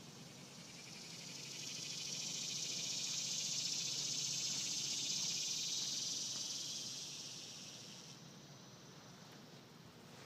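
Cicada buzzing loudly, swelling over a few seconds to a steady high drone, then fading away near the end.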